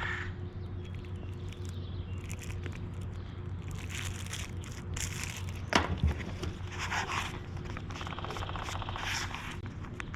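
Plastic spreader scraping as two-part glazing putty is mixed with hardener and worked, in several short strokes, with a sharp click about six seconds in. A steady low hum runs underneath.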